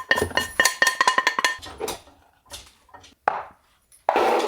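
A metal utensil clinking rapidly against a ringing metal dish, then a few lighter clinks and a short scrape near the end, as food is scraped out to be served.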